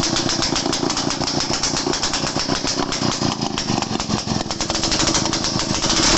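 Daihatsu Midget DKA's single-cylinder two-stroke engine running at idle, a rapid, even train of exhaust pulses.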